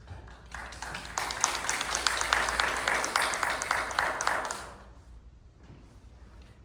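Audience applauding in a recital hall, a dense patter of many hands that swells about a second in and dies away about five seconds in.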